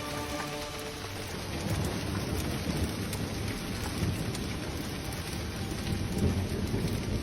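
Storm noise: a dense, steady hiss of heavy rain with irregular low rumbling underneath.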